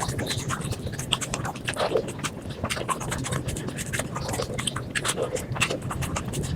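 Close-miked eating of spicy chicken skin and rice, sped up to five times normal speed: a dense, irregular run of quick crunches, smacks and clicks of chewing, several a second.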